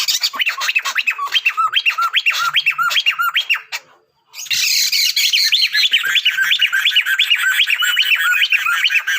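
A pair of Sunda laughingthrushes (poksai mantel), male and female, calling in rapid repeated up-and-down notes, about four to five a second, in two loud bouts separated by a short break about four seconds in.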